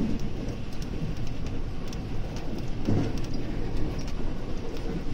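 JR West 521 series electric train running at speed, heard from behind the driver's cab: a steady low rumble of wheels on rail, with scattered light ticks and a louder low swell about three seconds in.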